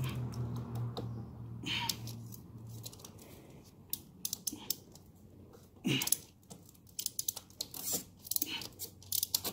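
Scattered light clicks, taps and scrapes of a clamp-on oil filter wrench working a motorcycle oil filter loose, with a low steady hum fading out over the first few seconds.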